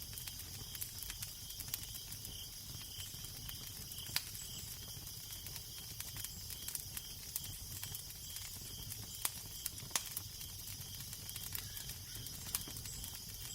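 Wood fire crackling, with irregular sharp pops over a steady hiss, and a low wind rumble underneath.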